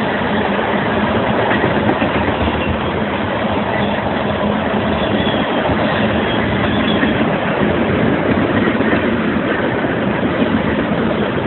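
Black oil tank cars of a freight train rolling past close by: a steady noise of steel wheels running on the rails.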